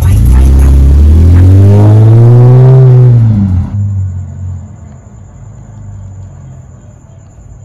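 Cadillac CTS's 3.6-litre V6 revving up and falling back over about three seconds, loud and close. Just before the four-second mark it cuts off abruptly, leaving a faint low hum.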